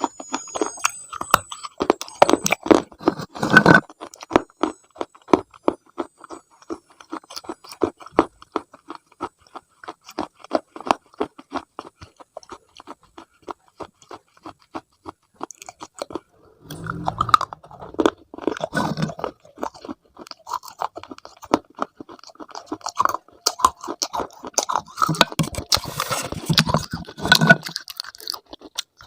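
Close-up eating sounds: crunchy food being bitten and chewed, a dense crackling with heavier crunching bites twice in the second half.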